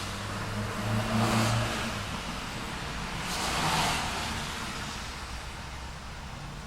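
City street traffic: a vehicle engine hums in the first couple of seconds, then a car passes with a swell of tyre noise about three and a half seconds in.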